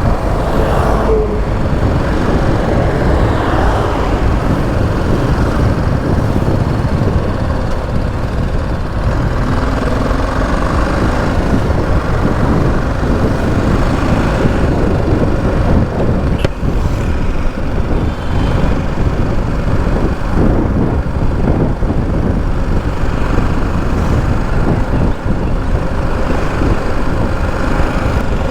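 BMW G 310 GS motorcycle ridden on a busy highway: a loud, steady mix of the bike's single-cylinder engine, wind and road noise, with passing traffic.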